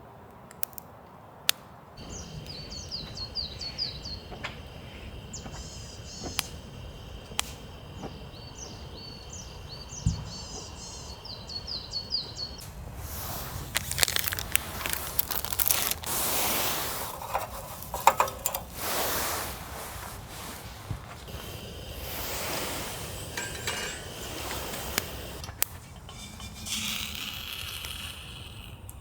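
Small birds chirping in quick repeated phrases. From about halfway, louder rustling and handling noises with scattered clinks and clicks take over.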